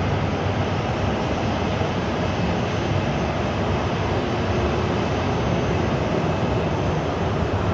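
Steady jet engine noise from a Boeing 737-700's CFM56 engines as the airliner rolls out after landing, a constant rumble with no breaks.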